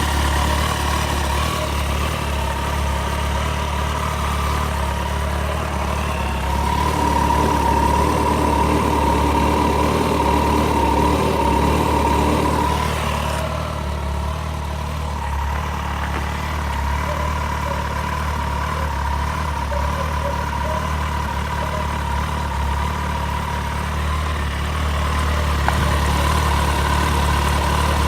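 Kawasaki ZZR1400's inline-four engine idling steadily.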